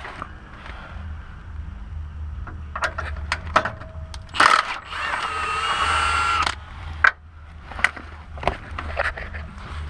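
Hand tools and metal parts clinking and knocking under a car while heat shields are being worked loose, with a loud scrape about four and a half seconds in followed by a squealing metal-on-metal scrape for about a second and a half. A steady low hum runs underneath.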